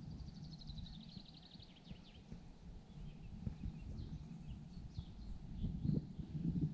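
A small songbird sings a fast trill of rapidly repeated high notes, drifting slightly downward, lasting about a second and a half near the start, followed by a few faint scattered chirps. A low rumbling noise runs underneath and grows louder near the end.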